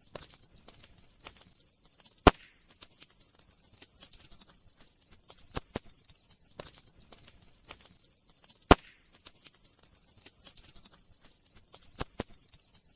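Wood fire crackling: a faint steady hiss with scattered sharp pops, the two loudest about two seconds in and about nine seconds in.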